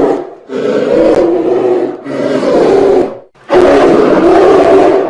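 A large animal roaring: a string of long, loud roars, each a second or more, broken by short gaps, the last one starting about three and a half seconds in and carrying on.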